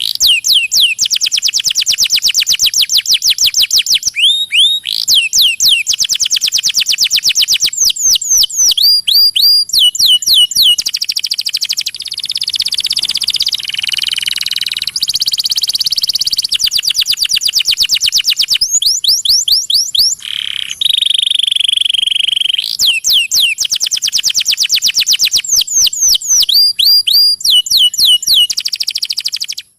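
Masteran bird-song recording of canary, lovebird and sparrow song: continuous, very rapid high trills broken by repeated groups of three or four quick rising whistled notes, with a softer stretch around the middle.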